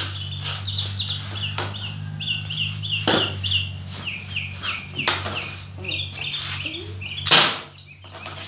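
A songbird singing a long run of short, quickly repeated downward chirps, broken by a few sharp knocks, the loudest about seven seconds in, over a steady low hum.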